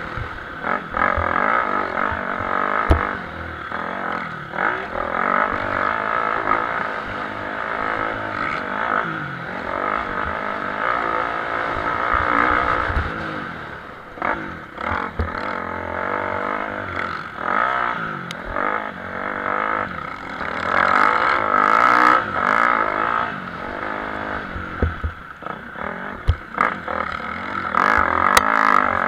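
Several motocross bikes racing, their engines revving up and falling back over and over as riders work the throttle and shift, with a few sharp clattering knocks.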